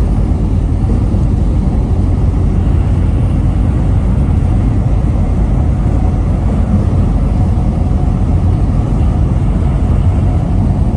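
Steady low rumble of a semi truck driving at highway speed, engine and tyre noise heard from inside the cab.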